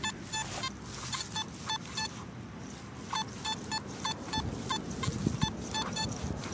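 Metal detector beeping over a buried target: about twenty short, clear beeps in uneven runs, with a pause of about a second between the runs. A few dull low thumps come about two thirds of the way through.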